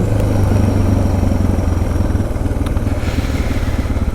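Suzuki DR650's single-cylinder four-stroke engine running as the motorcycle is ridden. About halfway through the engine note eases into a slower, even pulsing beat, as if off the throttle.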